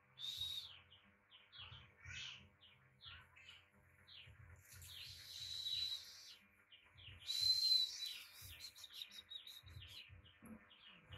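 Small birds chirping repeatedly, with three buzzing calls of about a second each: near the start, around the middle and about two-thirds through, the last the loudest.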